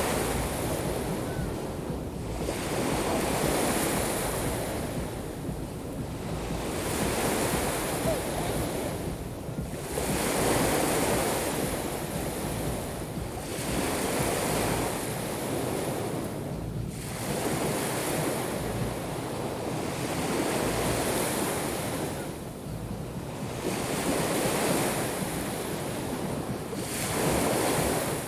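Black Sea waves breaking and washing on the shore, each wave swelling and falling away, about one every three to four seconds, with a low wind rumble on the microphone.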